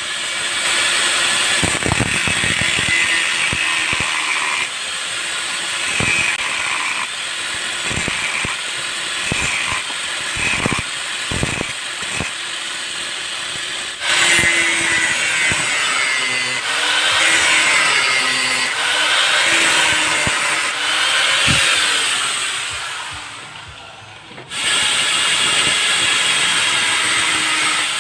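Honda CRF150's single-cylinder four-stroke engine running loud through an aftermarket 'Kalkal' exhaust pipe, with sharp knocks early on and a series of quick rev blips, each rising and falling in pitch, in the second half.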